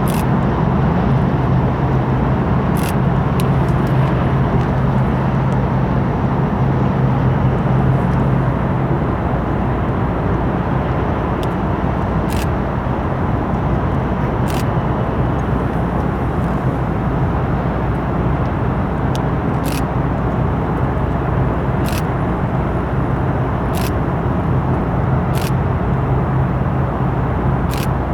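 Steady low drone of a ship's engine machinery with a constant hum. Sharp clicks come every second or two in the second half.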